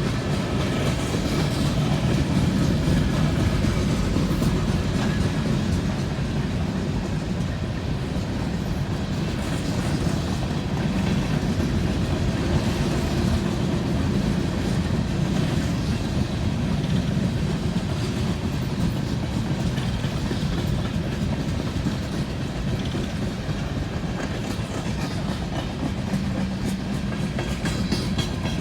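Freight cars of a long BNSF coal train rolling steadily past, with the wheels clicking over the rail joints under a continuous low rumble.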